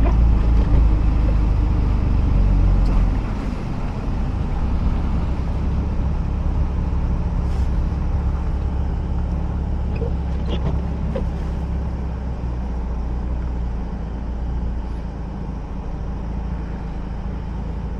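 Mazda RX-8's rotary engine and road noise while driving, a steady low drone. It drops a step about three seconds in, then eases slowly lower.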